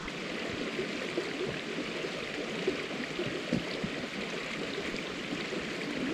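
Steady rushing of running water, like a small mountain stream, holding an even level throughout.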